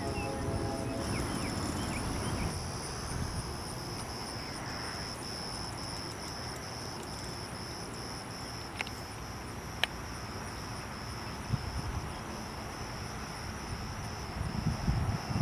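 Insects chirping in a steady high, pulsing trill, over a low rumble of wind on the microphone. Two sharp clicks come about nine and ten seconds in, and a gust of wind near the end.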